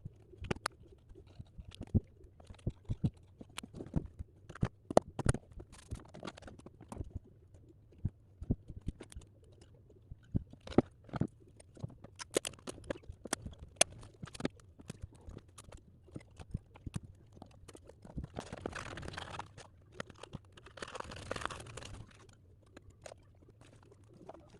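Paper and drawing tools being handled at a desk: irregular clicks and taps, with two longer rustling stretches near the end.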